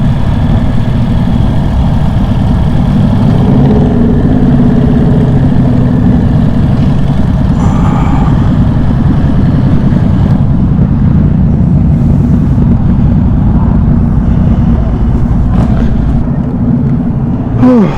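Motorcycle engine running at low speed, a steady low rumble heard close up from the rider's camera.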